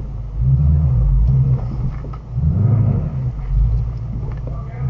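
Shelby GT350's 5.2-litre flat-plane-crank V8 running as the car is driven slowly, its deep low rumble swelling and easing a few times.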